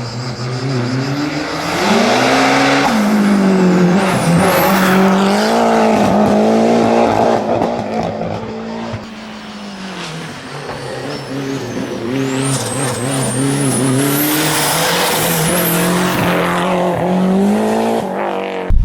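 Racing car engine revving hard, its pitch climbing and falling as it accelerates, eases off about eight seconds in and accelerates again, with thin high tyre squeals over it.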